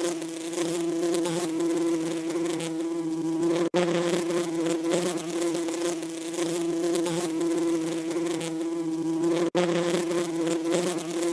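Bees buzzing: a steady, pitched drone with a rich stack of overtones, broken by two split-second gaps about four and nine and a half seconds in.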